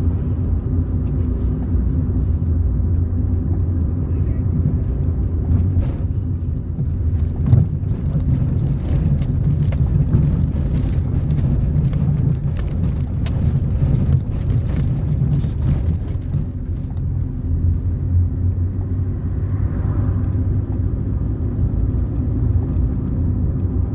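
Car driving along a road: a steady low rumble of engine and tyre noise, with scattered knocks and rattles, thickest from about six to fourteen seconds in.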